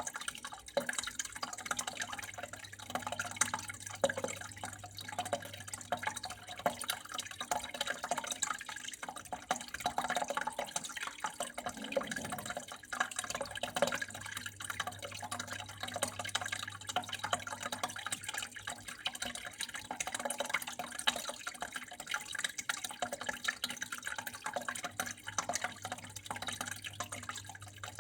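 Water flowing and dripping in a dense, irregular patter of drops, with a faint steady low hum underneath.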